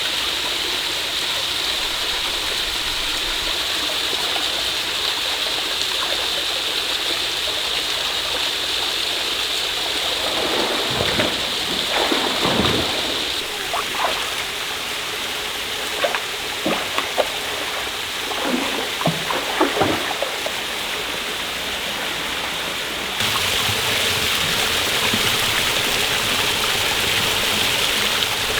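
Steady rushing water of a forest waterfall and stream. Its tone shifts abruptly about halfway through and again near the end. Between about ten and twenty seconds in, a scattering of light knocks and clatters sounds over it.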